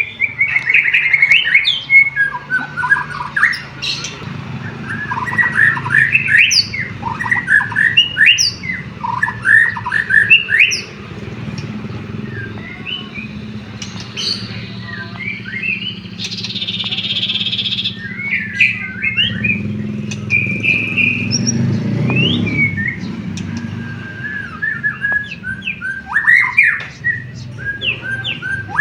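White-rumped shama singing a loud, rapidly varied song of whistles, chirps and harsh notes. A steady low hum runs underneath.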